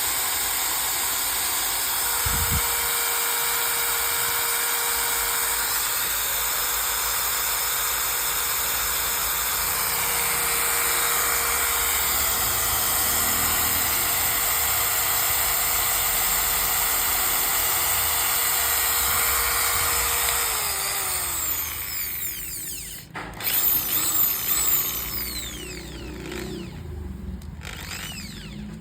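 Maktex 230 W electric drill running steadily at speed, then released about two-thirds of the way through and winding down. A few short, uneven bursts follow near the end.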